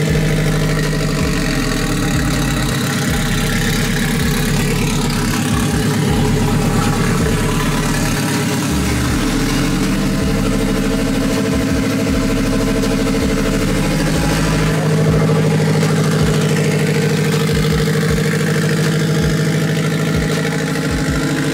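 Turbocharged Honda K-series four-cylinder engine idling steadily.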